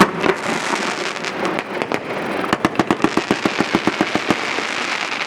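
A consumer firework cake firing. A sharp report comes right at the start, then a steady crackle, and a rapid run of pops at about eight a second from about two and a half to four and a half seconds in.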